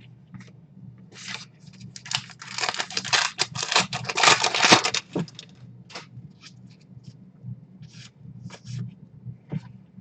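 A baseball card pack's wrapper being torn open, a crinkly ripping from about two to five seconds in, with short rustles of cards being handled before and after.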